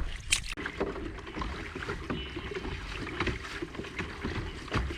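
Water splashing and lapping around a fishing kayak, with many small irregular knocks and splashes over a low rumble.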